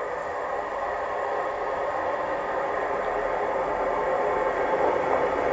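Class 158 diesel multiple unit approaching along the track, its running noise steady and growing gradually louder as it nears.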